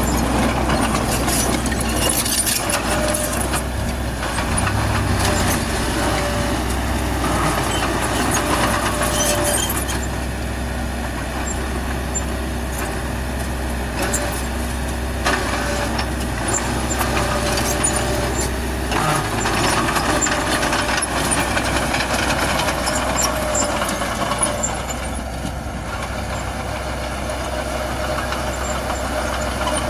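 Heavy diesel earthmoving machinery running steadily under load, with a low engine drone and frequent metallic clanks and rattles throughout.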